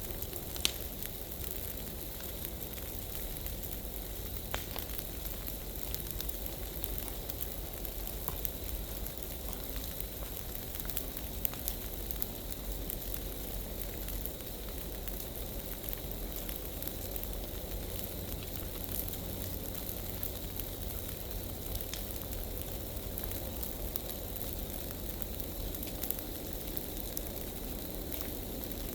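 Large piles of dry leaves burning: a steady rush of flame with scattered sharp crackles and pops.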